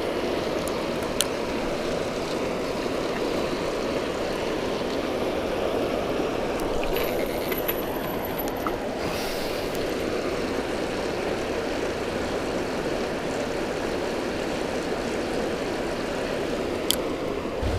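Steady rush of water pouring through a river spillway. A few faint clicks and a brief thin high whine come about seven seconds in.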